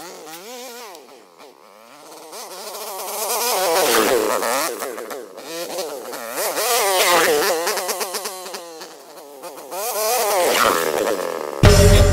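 Enduro motorcycle engine revving, its pitch rising and falling as it comes close and pulls away, loudest about four, seven and ten seconds in. Music with a beat cuts in abruptly just before the end.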